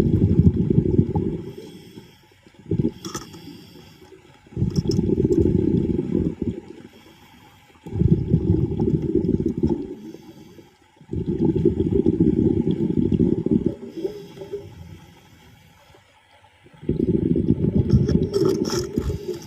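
A scuba diver breathing through a regulator underwater: a bubbling rumble of exhaled air comes about every three seconds, each lasting about two seconds. Quieter gaps with a faint hiss of inhalation fall between them.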